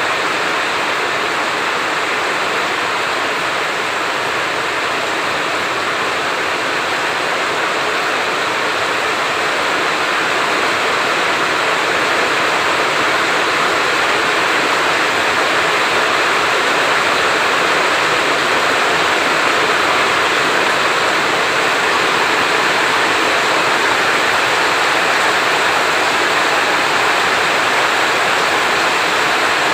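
Heavy rain falling steadily, a dense even hiss with no thunder, growing slightly louder about a third of the way in.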